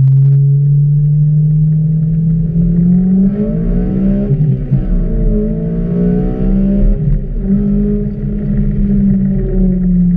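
2011 Honda Civic Si's K20 four-cylinder engine, breathing through a cold air intake and an aftermarket cat-back exhaust, accelerating hard, heard from inside the cabin. The engine note climbs in pitch over the first few seconds, rises and falls in the middle, holds steady, then drops near the end.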